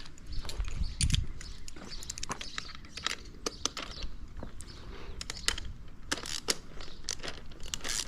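Irregular metallic clicks and clinks of hand tools, an extension and socket, working on a dirt bike's handlebar clamp bolts, with a dull knock about a second in.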